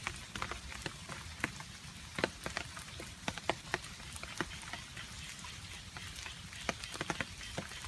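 Rain falling steadily, with water drops dripping and striking a surface in sharp, irregular ticks, a few a second.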